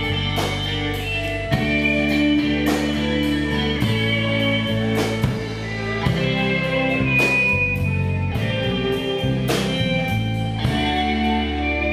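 Live rock band playing: electric guitars picking melodic lines over bass and a steady drum kit beat.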